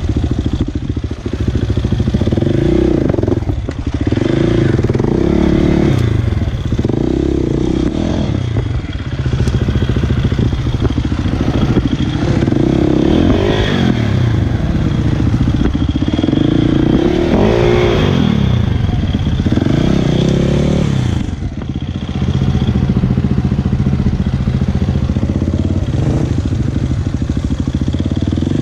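Motocross bike engine running hard as the bike is ridden, its revs rising and falling with the throttle. The sound drops briefly a few times where the throttle is closed.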